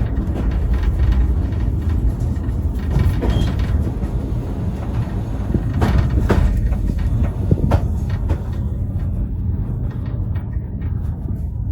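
Vintage railway carriage rolling along the track: a steady low rumble with a few sharp knocks from the wheels and couplings.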